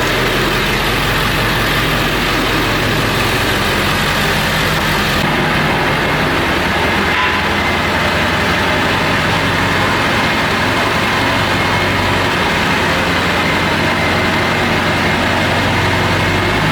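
Diesel truck engine idling, loud and steady, with an exhaust leak at the downpipe.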